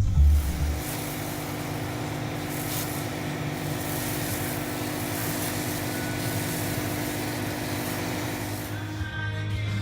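A truck on the move: steady running noise, a low hum under a broad hiss of road and wind, holding even for most of the stretch.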